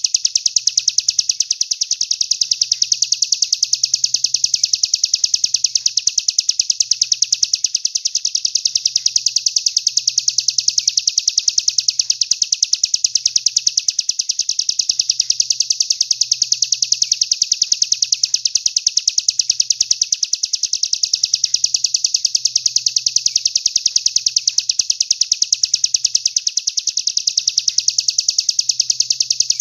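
A songbird's rapid, even, high-pitched trill repeating without a break, a 'masteran' recording played to teach competition songbirds.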